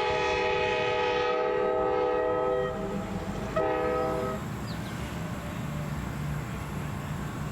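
Reading & Northern diesel locomotive air horn sounding a multi-note chord. One long blast ends about two and a half seconds in, a short blast follows about a second later, and then the low rumble of the train runs on.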